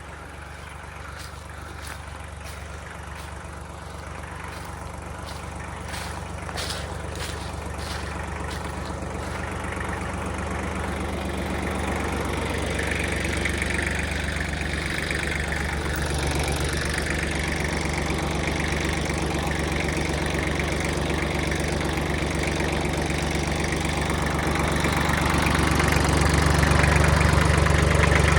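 Kubota machine's diesel engine running steadily, growing steadily louder as it comes closer or is throttled up, with a few light clicks about six to eight seconds in.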